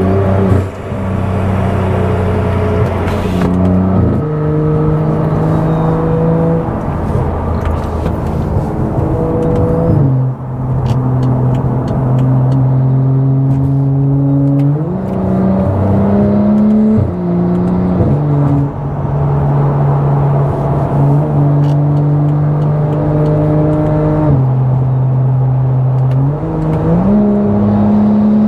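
Stage 2+ tuned BMW F10 535i's turbocharged inline-six droning loudly through its aftermarket exhaust under way. The engine holds steady revs for stretches of a few seconds, and its pitch steps up or down several times as the revs change.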